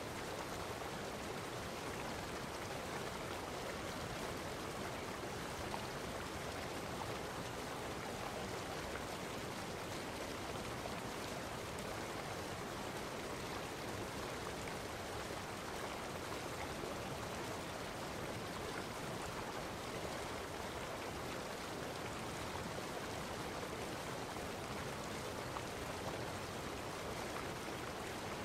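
Steady rushing water, an even unbroken wash of sound with no separate drops, splashes or other events.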